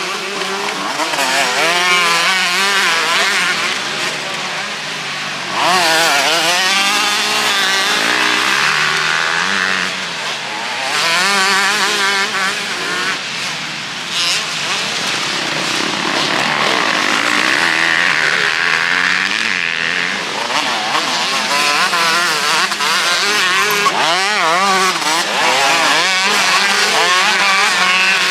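Several motocross bikes racing, their engines revving up and down continually as riders work the throttle and shift. A louder bike comes in suddenly about five and a half seconds in.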